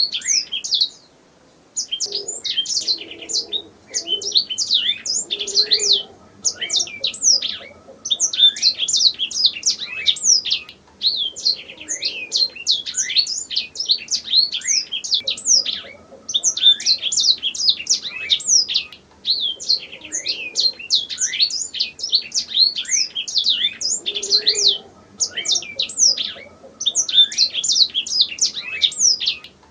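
Domestic canary singing: long rapid runs of quick, high, falling whistled notes, broken by short pauses, the longest about a second in.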